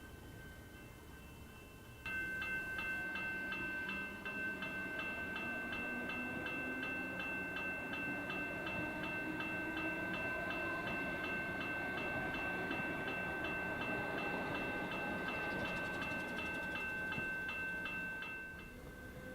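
Railway level crossing warning bell ringing rapidly and evenly. It switches on suddenly about two seconds in and stops near the end. Under the bell, an electric suburban train passes with a slowly rising motor whine.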